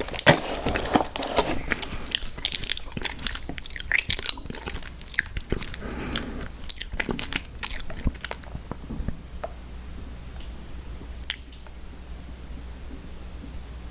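Close-miked chewing of crunchy cookies: crisp crunches and wet mouth clicks, busy at first and thinning out to a few isolated clicks in the second half.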